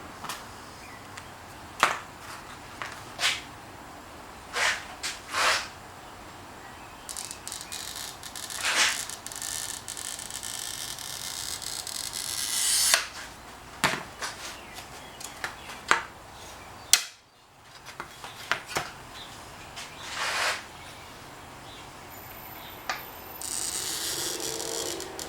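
Glass cutter scoring mirror glass: a long scratchy hiss that grows louder for several seconds, with a second shorter scrape near the end. Sharp taps and clicks of the glass and tools being handled come before and between.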